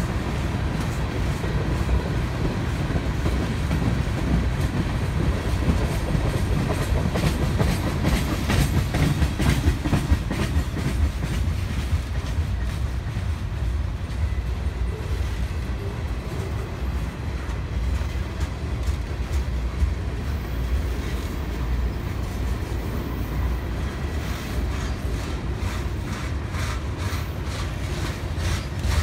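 Mixed freight train of tank cars and gondolas rolling past, a steady low rumble with the wheels clacking over the rail joints. The clacks come thickest about a third of the way in and again near the end.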